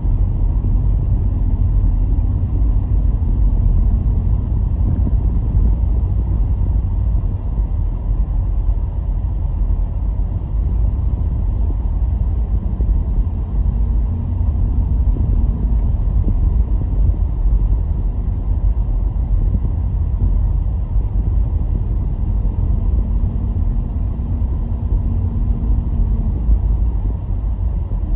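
A car being driven along a road: a steady low rumble of tyres and engine, with a faint engine hum that rises and fades a few times.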